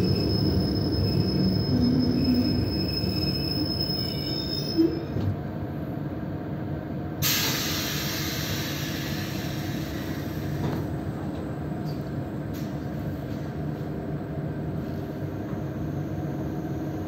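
Passenger train braking to a stop, heard from inside the carriage: a high, steady squeal that fades out about five seconds in, then a sudden loud hiss of air about seven seconds in that dies away over a few seconds, over the train's steady low hum while it stands.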